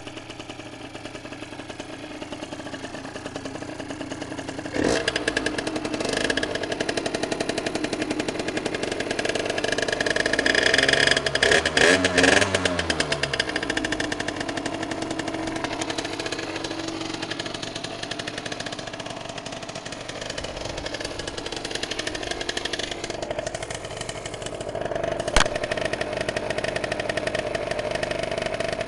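Derbi Senda two-stroke moped engine running through an Arrow aftermarket exhaust. It steps louder about five seconds in and is revved up and down a few times about halfway through, with a single sharp snap near the end.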